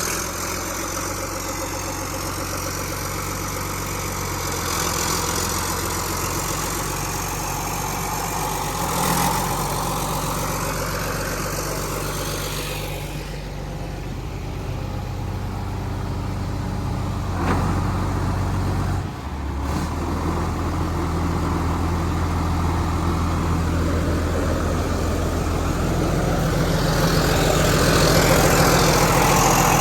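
An old John Deere farm machine's diesel engine idling steadily, its note shifting slightly a couple of times, with a brief dip about two-thirds of the way through.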